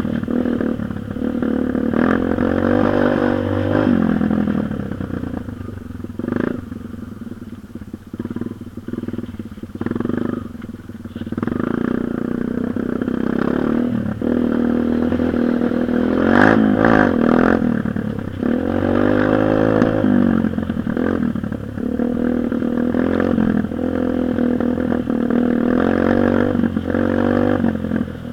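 Dirt bike engine revving up and down again and again, its pitch rising and falling, easing off to a quieter, uneven stretch for several seconds about a third of the way through.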